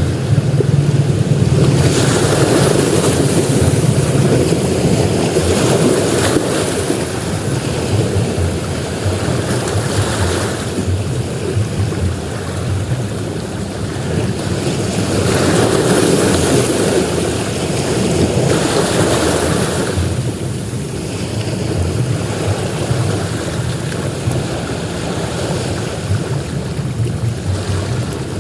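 Ocean surf breaking and washing up a beach: a continuous rushing wash that swells with a wave near the start and again around the middle, then eases.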